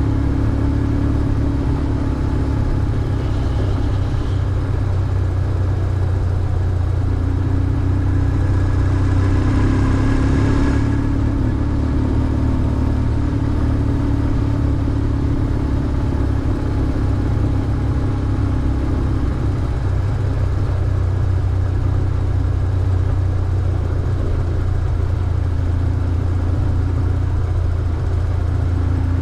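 BMW R1150GS motorcycle's air-cooled boxer twin engine running steadily under way, a low rumble with the pitch shifting as the throttle changes. A louder rush of noise rises for a few seconds near the middle.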